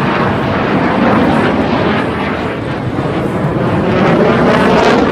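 Loud, steady jet engine noise from Blue Angels jets flying past, growing a little louder near the end.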